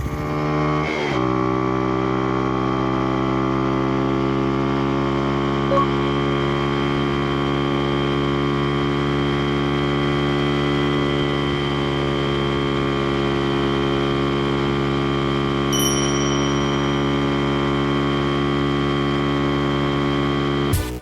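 Honda Ape 50's single-cylinder four-stroke engine idling steadily with its cam chain tensioner freshly adjusted, settling to an even idle about a second in.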